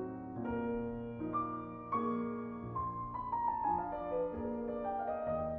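Slow, gentle piano music: single melody notes over held low notes.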